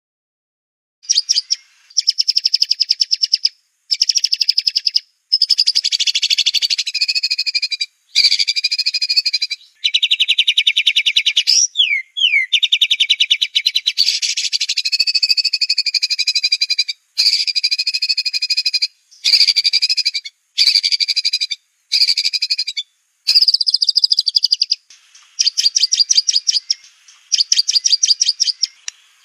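White-rumped shama (murai batu) singing a run of rapid, buzzy trilled phrases, the fast 'tembakan' bursts, each one to three seconds long with short breaks between, starting about a second in. A few sliding whistled notes come about twelve seconds in.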